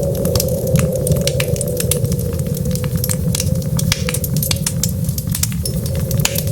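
Wood fire crackling in a fireplace: quick, irregular pops and snaps over a steady low rumble of the burning.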